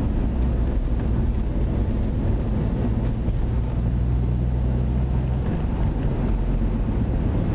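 Opel Zafira OPC's turbocharged four-cylinder engine running through a Milltek resonated exhaust: a steady low drone whose note shifts about five and a half seconds in.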